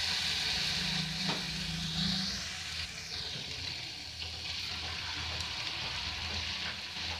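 Potato-batter jalebis frying in hot ghee in a kadhai: a steady sizzle as fresh batter is piped into the fat beside pieces already cooking.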